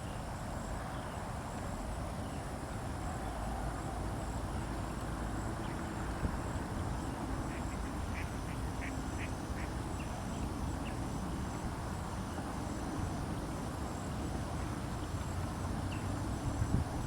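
Mallard ducks quacking, including a quick run of short calls about eight to eleven seconds in, over a steady low background noise.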